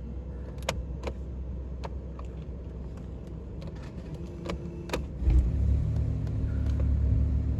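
A few sharp clicks, then about five seconds in the BMW i8's turbocharged three-cylinder petrol engine starts and settles into a steady low idle.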